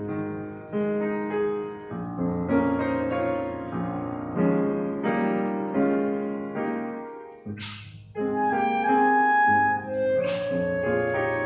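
Offertory music: piano playing chords, joined from about eight seconds in by a woodwind, likely a clarinet, holding long melody notes above it.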